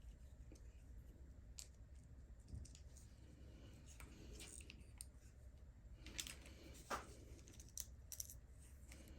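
Faint, scattered clicks and light taps of small hand tools and screws being handled while taking apart an RC car's differential, the sharpest a little after six and seven seconds in.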